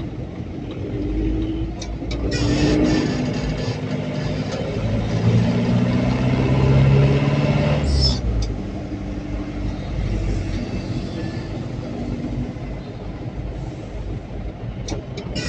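Pickup truck engine running while driving in traffic, its pitch rising a couple of times as it picks up speed, over steady road noise. A few brief clicks are heard along the way.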